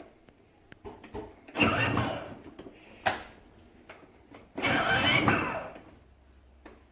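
Toy car's electronic engine sound effect, in two short bursts about three seconds apart, with a sharp click between them.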